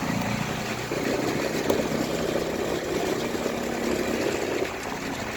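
Motorcycle engine running steadily, with road noise. A broader rush of noise comes in about a second in and fades near the end.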